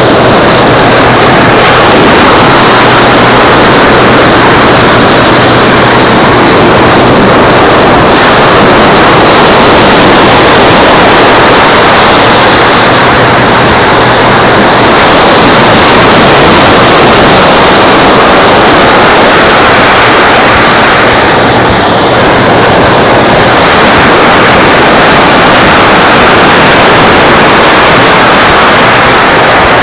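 Steady rushing noise of surf and wind on a beach, dense and loud throughout, with a faint low drone underneath for the first dozen seconds.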